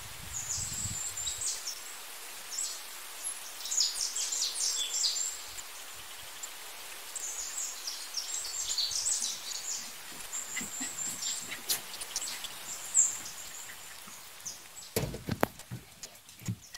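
Small birds chirping and twittering in quick, very high calls, in several spells over a steady outdoor hiss. Near the end come a few sharp knocks and scuffs.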